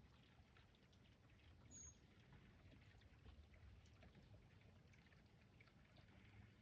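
Near silence: faint outdoor ambience with a low rumble, and one short, high, thin note about two seconds in.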